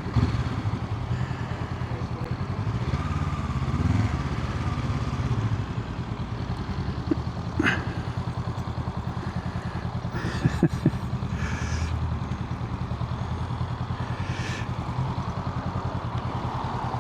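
Honda CL500's parallel-twin engine running at low revs, its note rising and falling slightly in the first few seconds, with a few short clicks about halfway through.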